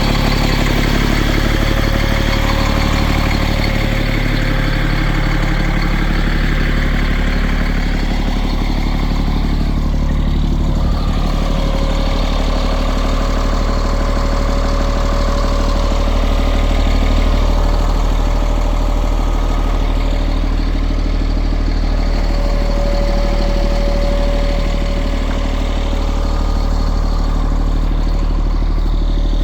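Freightliner hook truck's diesel engine running steadily at idle, with a steady whine over the engine note.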